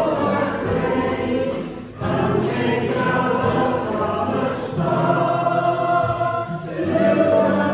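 Congregational hymn singing with instrumental accompaniment, sung in phrases with short breaths between them.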